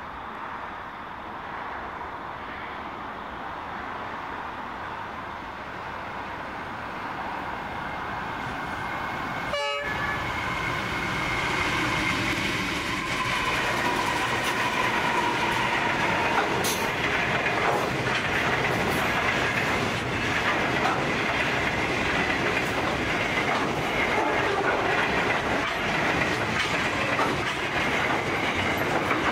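Long container freight train hauled by Pacific National NR class diesel-electric locomotives, growing louder as it approaches. After a brief break about ten seconds in, it passes close by with engine noise, the clickety-clack of wagon wheels over the rails, and a steady high ringing tone.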